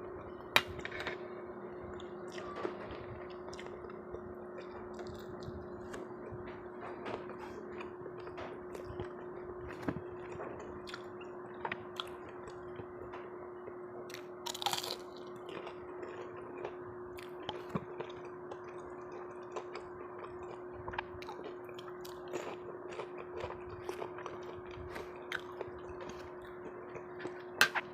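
A person chewing and eating close to the microphone, with scattered small clicks and ticks, over a steady low hum.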